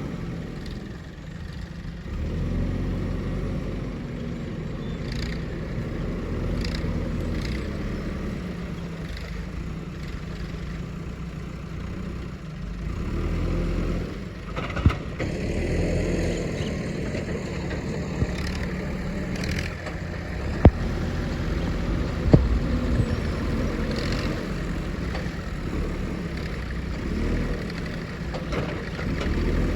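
Backhoe loader's diesel engine running steadily while working, with a few sharp knocks, the loudest about two-thirds of the way through.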